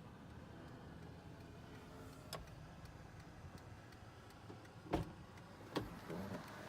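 Faint, steady vehicle engine idling, with a few sharp clicks and knocks about five and six seconds in.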